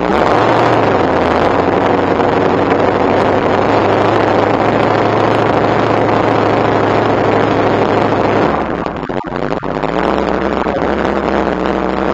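Shelby Cobra's V8 engine running at a steady light throttle, heard from the cockpit. About eight and a half seconds in its note drops away briefly, then carries on at a lower pitch.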